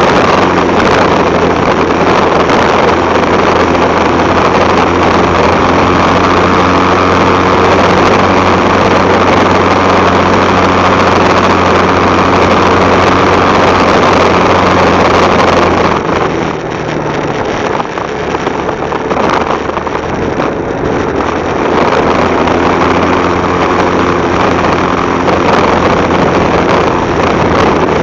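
Motorcycle engine running steadily under way, with wind noise on the microphone. About sixteen seconds in, the sound drops and turns rougher for a few seconds before the steady engine tone returns.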